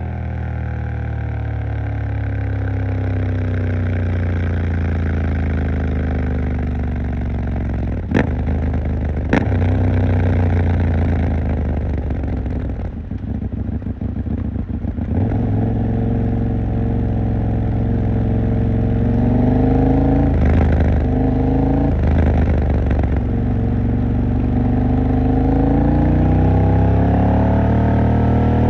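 KTM 890 Duke R's parallel-twin engine on the move. The revs fall steadily for several seconds, with two sharp clicks about eight and nine seconds in. The engine runs low and quieter for a few seconds, then the revs rise again in several surges as the bike pulls away, climbing once more near the end.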